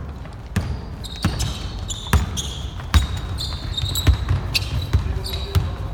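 Basketball bouncing repeatedly on a hardwood gym floor during play, with short high-pitched sneaker squeaks in between, in a large reverberant gym.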